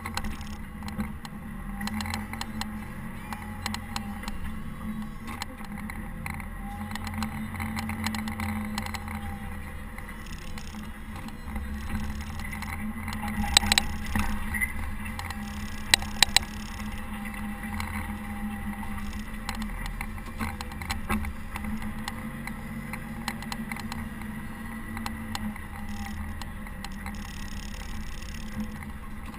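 Caterpillar TH330B telehandler's diesel engine running steadily under load while plowing snow. A few sharp knocks a little past halfway are the loudest sounds.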